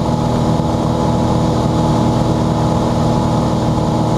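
Cessna 182's piston engine and propeller running steadily in level flight: a constant, unchanging drone.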